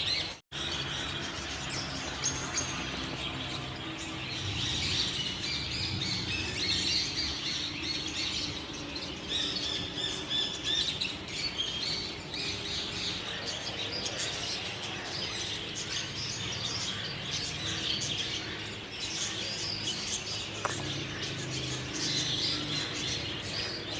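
African grey parrot chirping and whistling in a steady stream of short calls, with the sound cutting out for an instant about half a second in.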